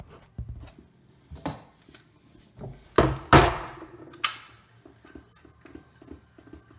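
Knocks and clatter of a cordless drill with a hole saw being handled against a wooden cabinet, with three loud sharp knocks between about three and four and a half seconds in. No drill motor is heard running.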